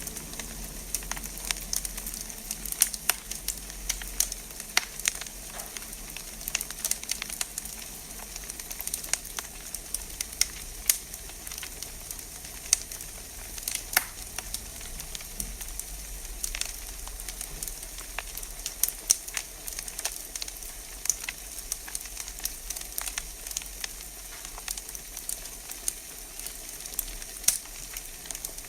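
Wood fire in a fireplace crackling, with irregular sharp pops over a steady hiss.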